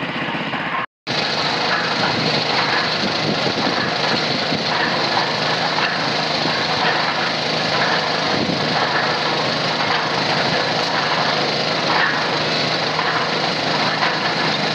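Small petrol engine of a two-wheeled mini concrete mixer running steadily at a constant speed. The sound drops out for an instant about a second in, then resumes slightly louder.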